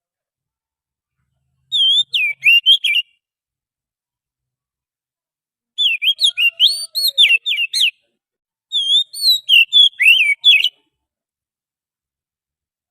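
Oriental magpie-robin (kacer) song: three short phrases of quick, varied whistled notes sliding up and down, each lasting about one to two seconds, with pauses of a few seconds between them. It is played as a lure call to draw in wild birds.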